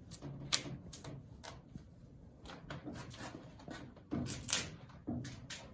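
Scattered light knocks and clicks of things being handled, with a louder pair of knocks about four seconds in.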